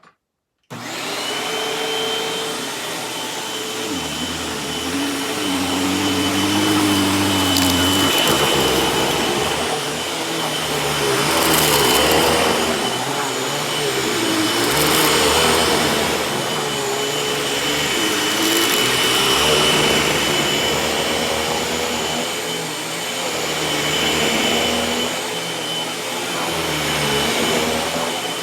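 Hoover WindTunnel T-Series bagged upright vacuum switched on about a second in, then running with a steady high whine, its loudness swelling and dipping in slow waves as it is pushed back and forth over carpet. The owner says the sound shows that it needs a new belt.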